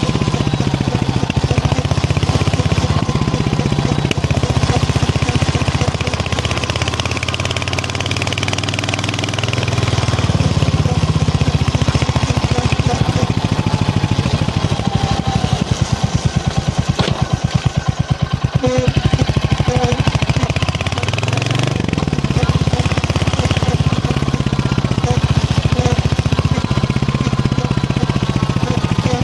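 Royal Enfield Hunter 350's single-cylinder engine and exhaust running under way, with a steady beat of firing pulses. Engine speed drops and picks up again about two-thirds of the way through.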